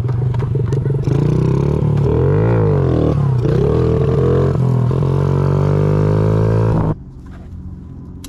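Honda CRF50 pit bike's small single-cylinder four-stroke engine running, blipped up and back down once a couple of seconds in, then idling steadily until it is switched off and stops abruptly about seven seconds in.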